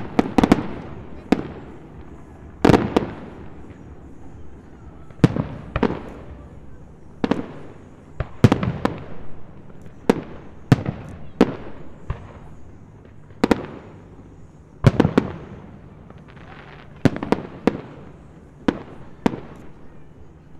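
Aerial firework shells bursting at a distance, a string of sharp bangs roughly one a second, some in quick pairs, each trailing off in an echo.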